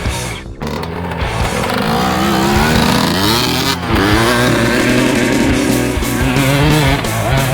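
Two-stroke dirt bike engine revving, its pitch climbing and falling through the gears, mixed with rock music.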